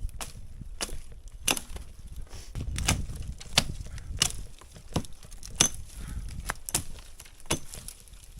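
Low fir branches being chopped off a tree with a hand blade: a string of sharp, woody chopping strikes at an uneven pace, roughly one or two a second.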